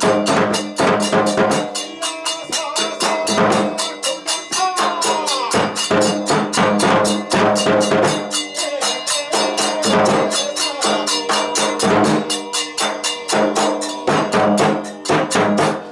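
Kagura accompaniment music at a fast, driving beat: drum and cymbal strokes struck about five or six times a second over sustained pitched tones.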